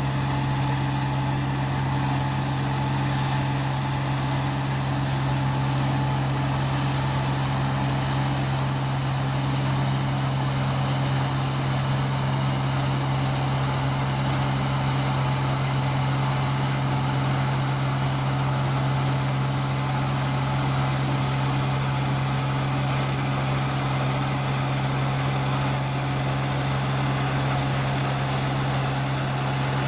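ISEKI 325 rice combine harvester running steadily while cutting rice, a constant engine drone that holds an even pitch and level throughout.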